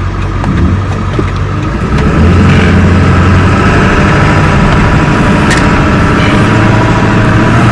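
Vehicle engine running steadily, growing louder about two seconds in and then holding at that level.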